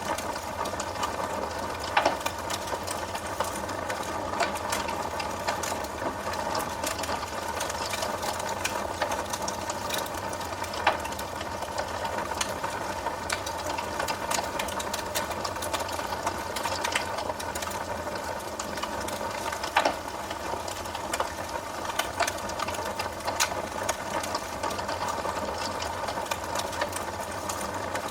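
Wood fire crackling in a fireplace: a steady, dense crackle with sharper pops of burning wood standing out every few seconds.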